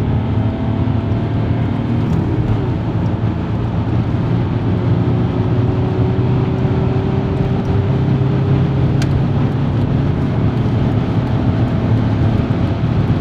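Audi A4 B6's 2.5 TDI V6 diesel heard from inside the cabin, pulling hard under acceleration from about 100 to 180 km/h, over a dense rumble of road and wind noise. A faint engine note climbs slowly in pitch as the speed builds.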